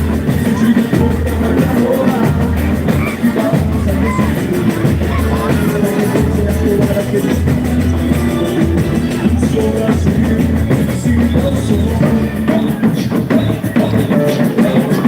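Live boi-bumbá toada played loud over a sound system: a heavy, steady drum beat under amplified singing and instruments.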